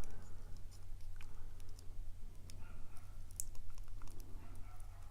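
Light, irregular clicks and taps of small metal padlock parts being handled and fitted back together, over a steady low hum.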